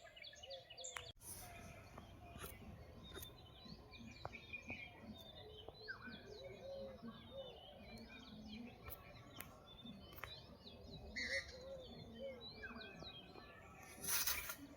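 Forest birds chirping and calling: many short high chirps from several birds, with lower repeated calls among them. A short, loud, noisy rustle comes near the end.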